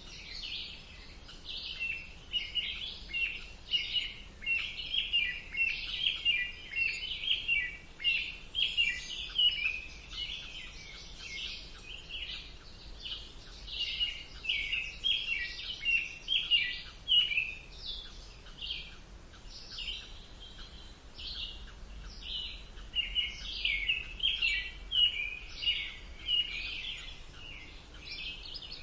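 A chorus of songbirds chirping and singing, with many quick, high calls overlapping all the way through.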